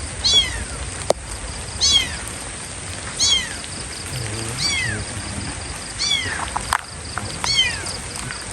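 Kitten meowing over and over, six high-pitched calls that each fall in pitch, about one every second and a half: the repeated cries of a kitten in distress.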